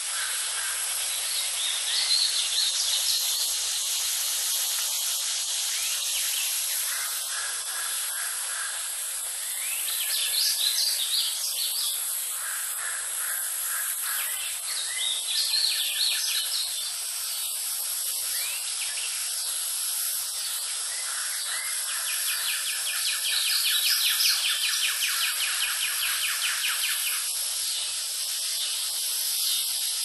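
Wild birds calling over a steady high hiss of natural background noise: several bursts of chirping calls, then a long rapid trill.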